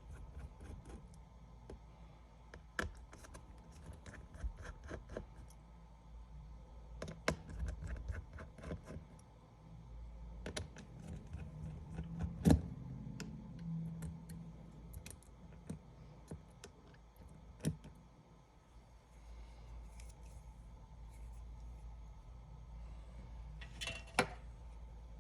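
Scattered small clicks and taps of hand repair tools working on an iPad 10 during disassembly, with one sharper knock about halfway through and a brief scrape near the end, over a low steady hum.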